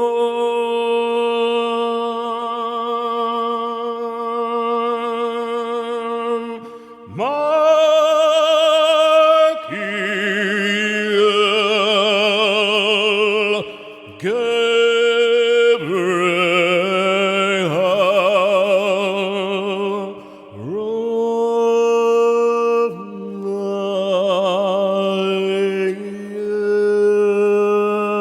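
Sound-healing vocal toning: several layered voices hold long, drawn-out notes rich in overtones, some with a wide vibrato. Each new phrase swoops up into its pitch after a brief dip, and this happens a few times.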